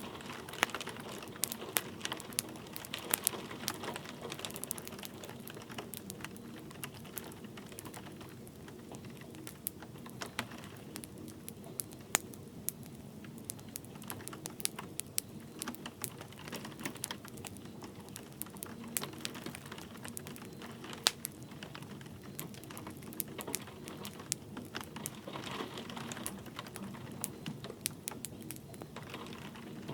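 Wood fire crackling in a fireplace, with irregular sharp pops and snaps, over a steady hiss of light rain.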